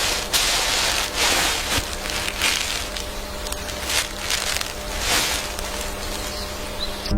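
Irregular crunching and rustling noise in uneven bursts, over a faint steady low hum.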